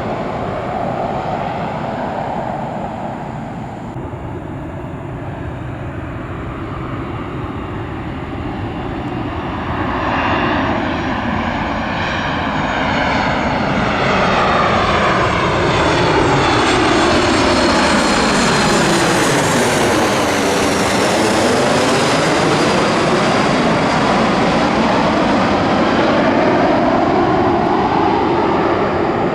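Jet airliner landing on runway 18R passing low overhead: its engine noise swells from about ten seconds in and stays loud through the second half, with a rushing tone that sweeps down and back up as it goes over.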